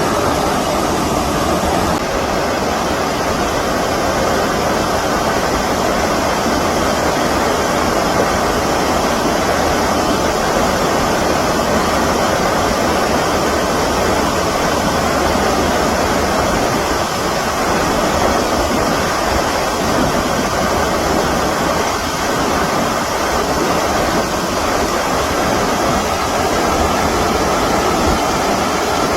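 Stream water rushing, a loud, steady wash of water without a break.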